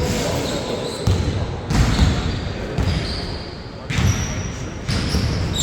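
Basketball bouncing on an indoor court, a few irregular thuds, with short high squeaks like sneakers on the floor and players' voices in the hall.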